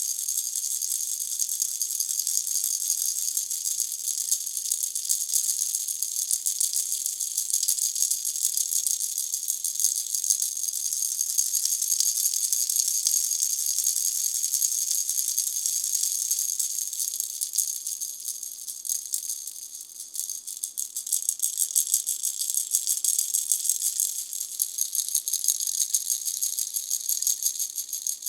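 Pineapple-shaped baby rattle shaken continuously, its small beads making a fast, hiss-like rattle. It turns softer for a moment about two-thirds of the way through.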